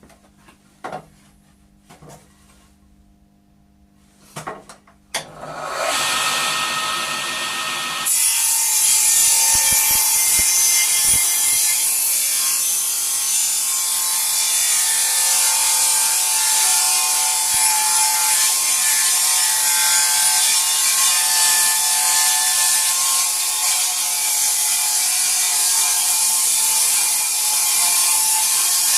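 A few light clicks, then a power tool starts up about five seconds in and cuts into timber from about eight seconds on, with a loud, continuous cutting noise.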